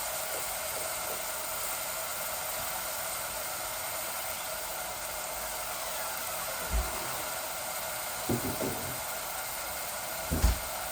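Onion, grated ginger and garlic frying in hot oil in a pot, a steady sizzling hiss. A few dull knocks come in the second half.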